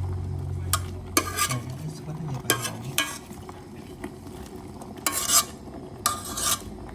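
A utensil stirring and scraping food in a cooking pot, in a series of short, irregular strokes, the longest about five seconds in. A low hum underneath fades out in the first two seconds.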